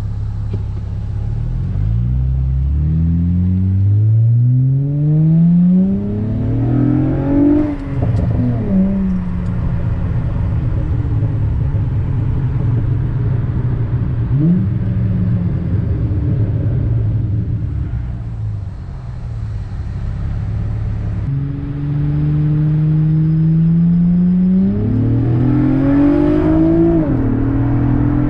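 2007 Acura TL's V6 through a custom exhaust with a Cherry Bomb glasspack and two short-body mufflers, pulling hard as the revs climb to an upshift about eight seconds in. It cruises, eases off, then pulls again to another upshift near the end.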